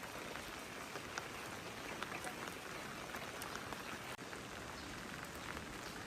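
Steady rain falling, with scattered individual drops ticking through the hiss and a momentary break about four seconds in.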